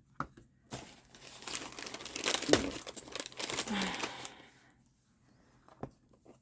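Crinkling and rustling as something crinkly is handled for about three and a half seconds, then two light clicks near the end.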